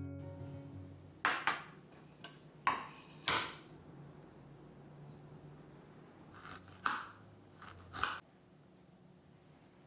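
Background music fading out, then a handful of short scrapes and clatters of kitchenware being handled, coming in pairs with quiet gaps between.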